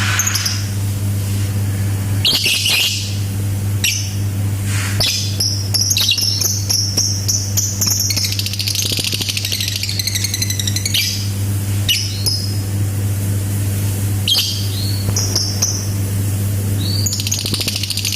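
Lovebird singing: high chirps mixed with rapid clicking 'ngetik' (typing) notes and long, dense trilled 'ngekek' runs, the longest about eight seconds in and again near the end. A steady low hum runs underneath.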